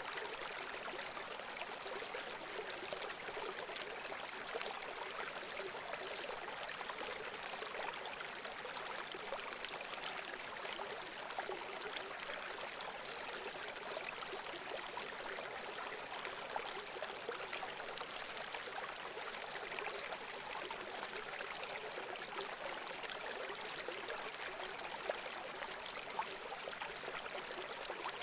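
Running water of a small stream, trickling and babbling steadily with many small splashes.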